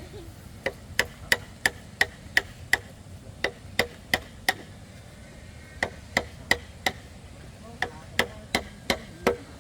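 Tool striking wood: sharp knocks about three a second, in four short runs separated by brief pauses.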